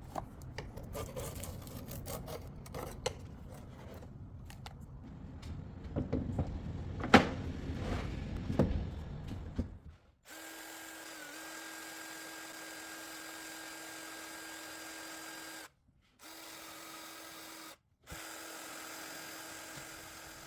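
Irregular knocks, taps and clicks of hand work for about the first half, then a small electric power tool running with a steady whine that dips briefly just after it starts and cuts out twice for a moment.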